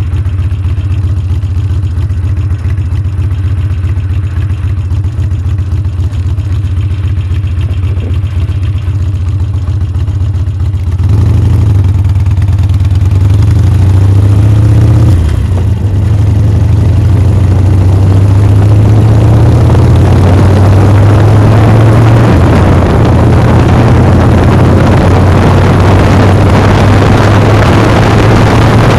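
Motorcycle engine running at a steady low note, then opening up about 11 seconds in with rising revs. A brief dip about 15 seconds in, like a gear change, is followed by a steady pull with a rushing noise that builds as the bike gains speed.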